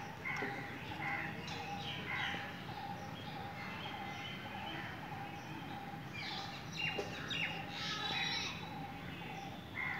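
Birds chirping and calling over a steady background hum, with a burst of quick, rapid chirps about seven seconds in.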